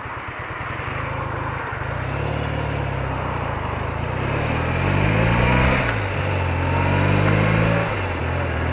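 BMW R80RT flat-twin motorcycle engine pulling through the gears: the pitch climbs, drops back at a gear change, and climbs again, three times over. Wind rush over the microphone runs underneath.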